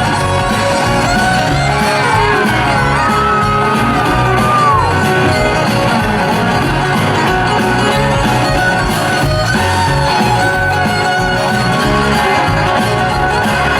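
Live country band playing an instrumental break: a fiddle carries gliding melody lines over guitar, bass and drums, with shouts from the crowd.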